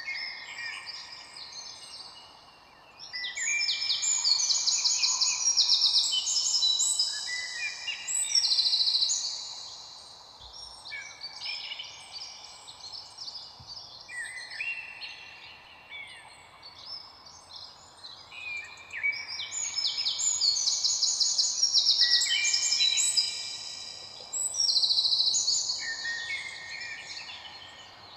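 Several songbirds singing together in a dense chorus of chirps and whistled phrases over a faint background hiss, swelling loudest twice.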